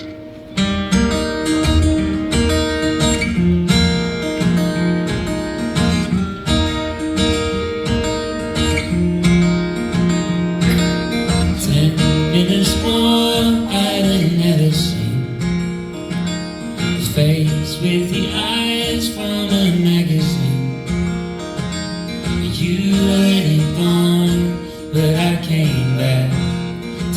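Folk band playing live: strummed acoustic guitar keeps a steady, driving rhythm under a moving bass line, the instrumental intro of the song.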